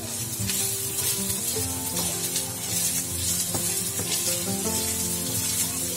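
Potato and ginger frying in a pan, sizzling steadily, with a few knocks from stirring. Instrumental background music with sustained notes plays throughout.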